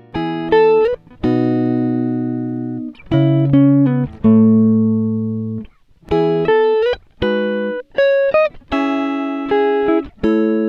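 Background music: a guitar playing single notes and chords that ring out and fade, a few with short slides in pitch.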